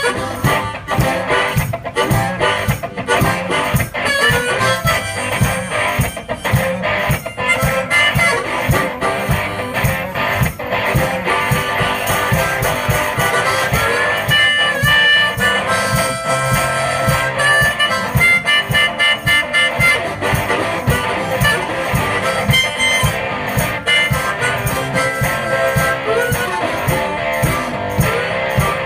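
One-man band playing a blues-style instrumental: harmonica leading over strummed guitar, with a steady drum beat.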